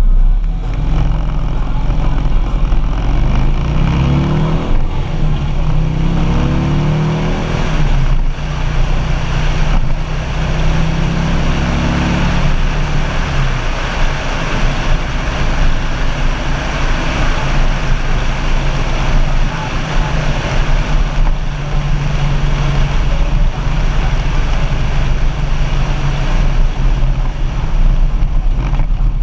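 Harley-Davidson Street Glide's V-twin engine pulling through the gears, its pitch rising several times in the first half as it shifts up, then running steadily at speed, under a constant rush of wind and road noise.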